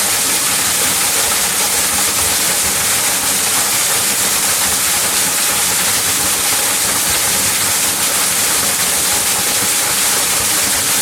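Waterfall crashing steadily into its pool: a loud, even rush of water with a bright hiss on top.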